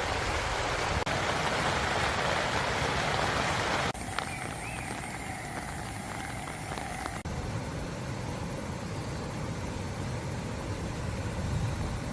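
Steady hiss of falling rain, in three short segments joined by cuts about 4 and 7 seconds in, the later ones quieter.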